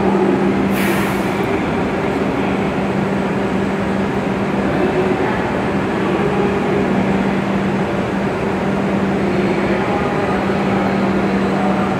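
A Hokuriku Shinkansen E7/W7-series train standing at the platform with its doors open: its onboard equipment gives a steady hum with a constant low tone. A short burst of air hiss comes about a second in.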